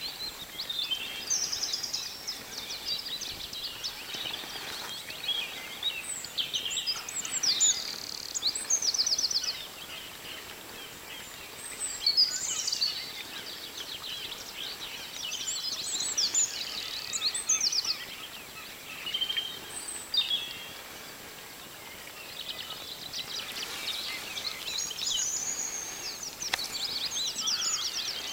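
Several small birds singing, high chirps and quick trills in bouts with quieter spells between.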